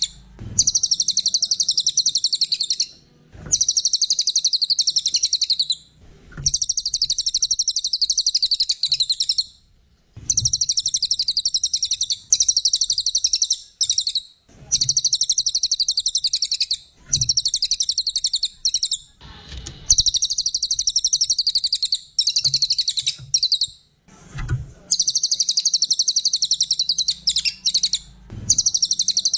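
Cililin songbird singing long, very rapid, high-pitched trilled phrases of two to three seconds each, repeated over and over with brief pauses between them. Faint low knocks fall in some of the pauses.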